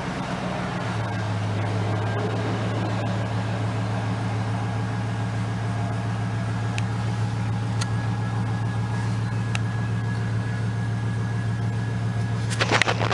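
Chevrolet Silverado pickup engine idling steadily just after starting, a low steady hum that firms up about a second in. A few sharp clicks come near the end.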